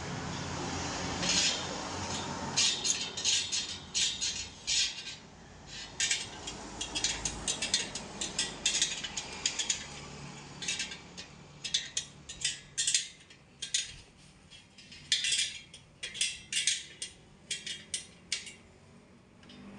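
Irregular run of short metallic clicks, clinks and ratcheting from hand tools working on a spoked motorcycle wheel.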